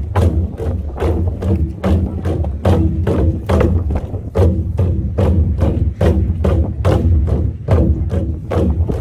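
Korean buk drums beaten by an ensemble in a fast, driving rhythm: sharp stick strikes several times a second over a steady low backing.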